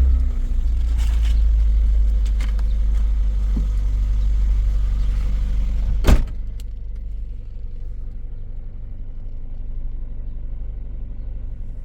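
Low, steady rumble of a car, louder for the first six seconds. A single sharp thump about six seconds in, after which the rumble is quieter.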